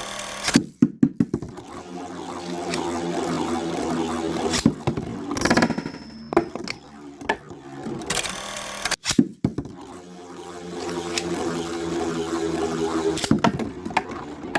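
Two metal-and-plastic Beyblade spinning tops, Storm Pegasis and Killer Gemios, whirring in a plastic stadium with a steady pitched hum. They clash with sharp clacks about a second in, around five seconds in and near nine seconds.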